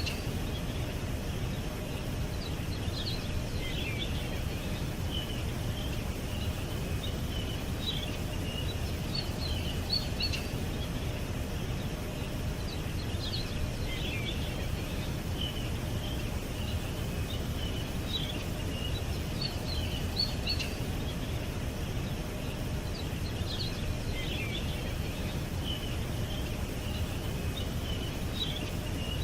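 Small birds chirping and twittering in short high bursts, with a similar cluster of calls recurring about every ten seconds, over a steady low background rumble.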